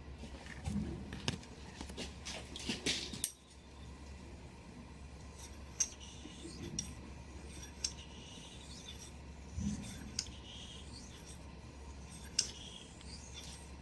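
Quiet sharpening work with a steel kamisori razor on a whetstone: light rubbing strokes and scattered small metallic clicks as the blade is handled, with a sudden drop in level about three seconds in.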